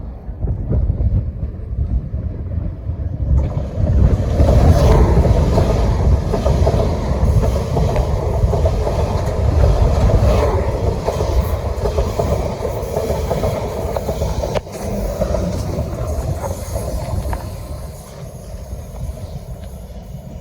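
A train running along the rails past the platform, loudest a few seconds in and easing off near the end, with a few wheel clicks over the rail joints. Wind rumbles on the microphone throughout.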